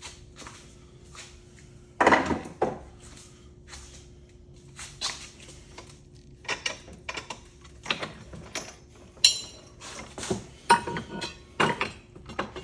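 Metal ceiling fan parts being handled and set down: a string of separate clinks and knocks, a few ringing briefly, the loudest about two seconds in.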